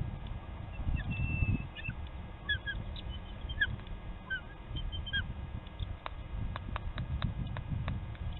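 Scattered short, high bird chirps and whistled notes, one held briefly, followed near the end by a run of about eight sharp clicks, over a low rumble.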